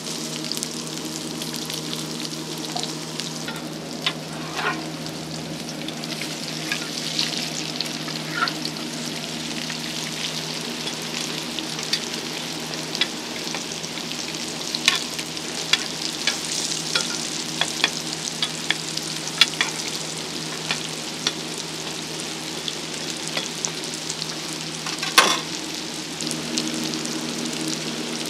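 Scallion bread sticks frying in hot oil in a wide pan: a steady sizzle scattered with sharp crackles and pops, the loudest pop a few seconds before the end. A steady low hum runs underneath.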